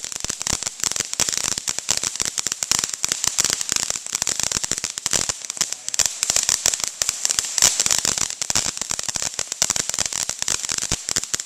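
Consumer fireworks crackling: a dense run of rapid small pops over a steady hiss, going on without a break.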